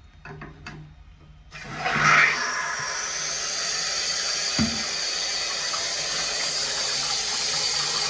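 A toilet cistern filling through its fill valve from the cold mains: water starts rushing in suddenly about a second and a half in, then runs steadily with a thin high whine over the hiss. There is a single dull thump about halfway through.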